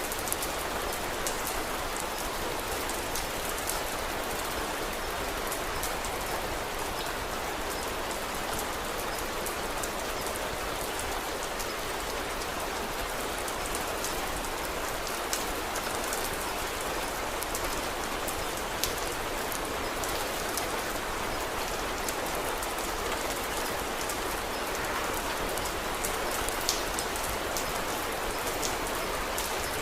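Steady rain falling, an even hiss, with scattered small sharp clicks throughout.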